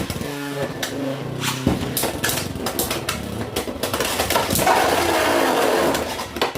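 Beyblade X spinning tops whirring in a plastic stadium, with repeated sharp clicks and clacks as they collide. The whir grows louder past the middle.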